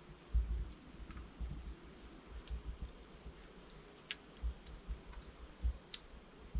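Logs burning in a fireplace, crackling: scattered sharp pops and snaps, three louder ones spread through, over soft low thumps and a faint hiss of the flames.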